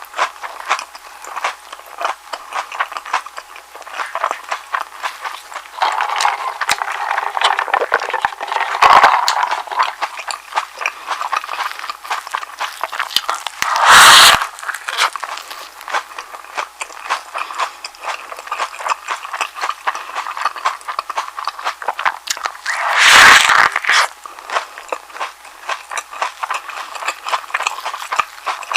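Close-miked chewing of a soft egg sandwich: steady wet mouth clicks and smacks, with two louder bites about fourteen seconds in and again about nine seconds later.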